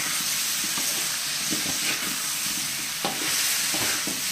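Beef and potato chunks sizzling in oil in a wok while a metal spatula stirs them. There are irregular scrapes and knocks of the spatula against the pan over a steady frying hiss.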